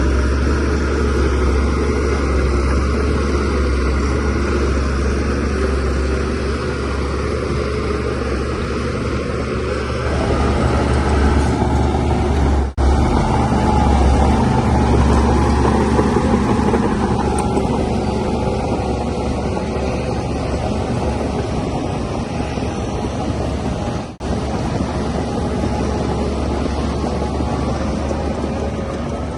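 DH17C3PRO bulldozer's diesel engine running steadily with a strong low drone. The sound cuts out briefly twice.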